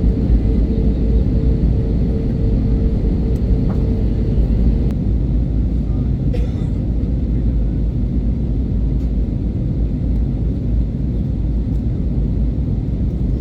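Jet airliner cabin noise: engines and airflow rumbling steadily as the aircraft climbs after takeoff. A faint pulsing tone runs for the first few seconds and then stops.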